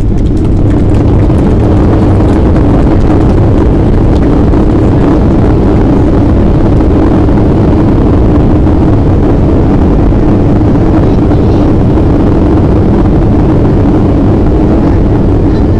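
Boeing 737-800's CFM56 jet engines and rushing air heard inside the passenger cabin during landing: a loud, steady roar.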